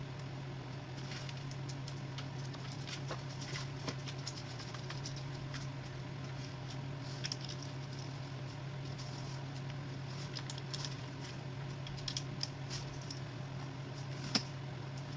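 Small metallic clicks and taps of nuts and hand tools being handled while the injector clamp nuts are threaded on by hand, with one sharper tap near the end, over a steady low hum.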